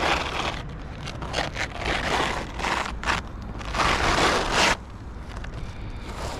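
A roof shingle scraping and rustling against the shingles around it as it is worked up into place under the course above, in a series of short scrapes with the longest and loudest about four seconds in.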